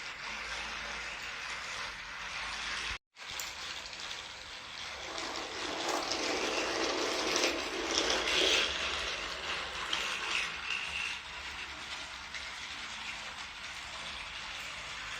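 Motorized Thomas & Friends Ashima toy engine running along its track, a steady whirr of its small battery motor and gears that grows louder for several seconds in the middle. The sound cuts out completely for a moment about three seconds in.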